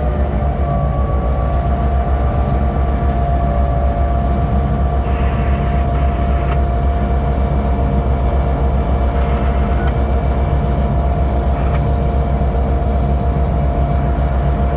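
Diesel locomotive running close by: a steady, loud low engine rumble with a thin steady whine above it.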